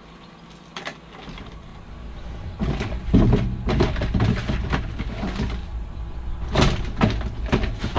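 Rummaging through a dumpster: cardboard boxes and loose items being pushed and knocked about, a run of irregular thumps, knocks and rustling that starts about two and a half seconds in, over a low rumble.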